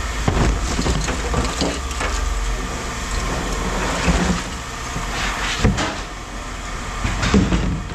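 A vehicle engine idling steadily, with scrap metal knocking and clanking several times as it is handled.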